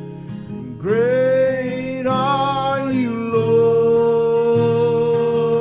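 A worship song sung to acoustic guitar accompaniment: a singer slides up into a long held note about a second in, then holds another long note from about three seconds in.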